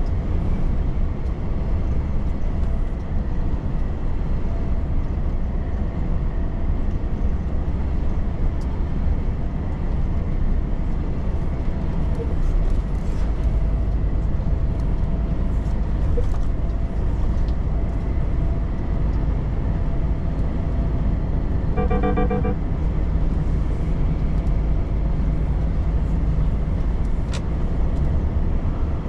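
Volvo FH truck driving at speed: steady low engine and road rumble. About three-quarters of the way through comes a brief run of rapid beeps.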